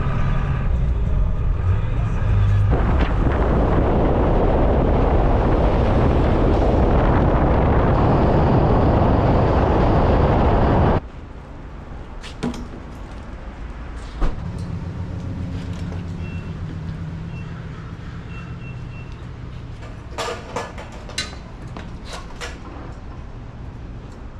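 Pressure washer at work: its engine runs, then a loud, steady hiss of water spray starts about three seconds in and cuts off suddenly about eleven seconds in. After that come a quieter engine hum and a few sharp clicks and knocks.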